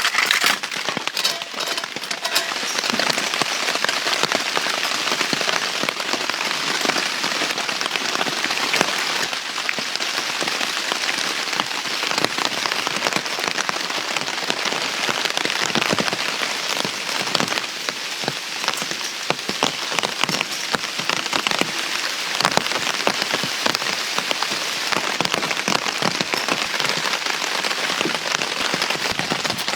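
Heavy rain falling steadily, with many separate drop hits scattered through it.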